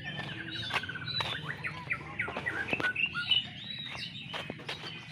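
Several songbirds singing at once, a dense mix of chirps, whistles and sharp short notes, with a fast falling run of repeated notes in the first second.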